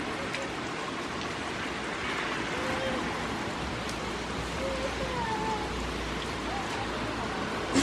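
Steady rain falling, a continuous hiss of drops pattering on wet paving.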